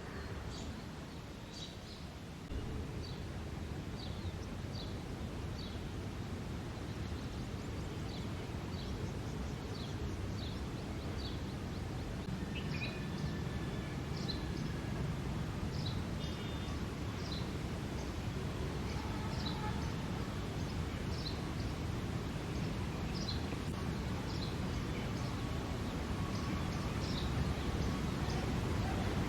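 Male house sparrow chirping over and over, short high chirps about one a second: a male's breeding-season chirping. A steady low rumble of background noise lies underneath, louder after the first couple of seconds.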